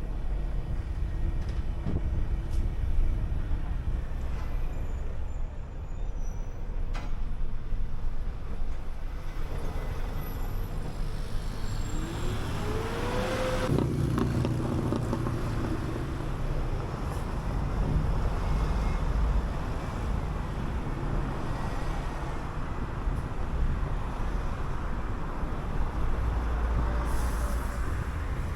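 City bus in motion: engine running over a steady road rumble. About halfway through, the engine note rises for a second or two, then cuts off abruptly with a short hiss.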